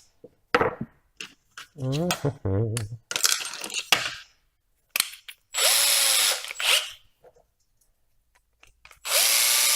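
Electric drill run in two short bursts, each about a second long and a few seconds apart, spinning up and winding down as it widens and chamfers a screw hole in a 3D-printed plastic holder.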